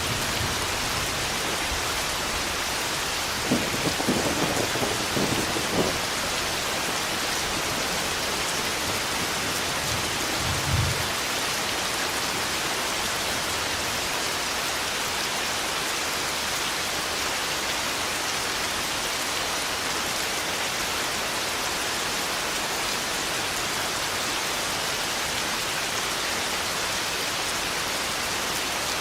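Steady heavy rain hiss, with a sudden thunderclap and rumble about three and a half seconds in and a short low rumble of thunder around eleven seconds.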